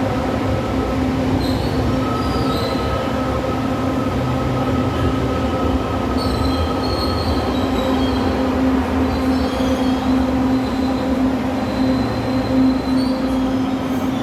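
LRT Line 2 electric train running steadily, with a constant motor hum and short high-pitched wheel squeals that come and go.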